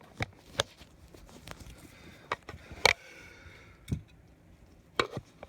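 A string of sharp clicks and taps from handling a parrot and nail clippers while its nails are being trimmed, the loudest snap about three seconds in.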